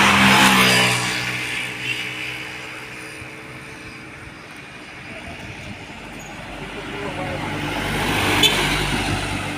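A heavy truck passes close by, its diesel engine note dropping in pitch as it goes away, then a second vehicle approaches with a deep rumble, loudest near the end, with a short sharp click as it passes.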